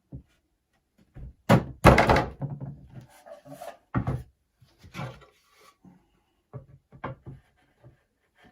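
Wooden beehive box boards knocking together as the dovetail joints are fitted: a series of separate wooden thunks, the loudest cluster about two seconds in, then a few lighter knocks.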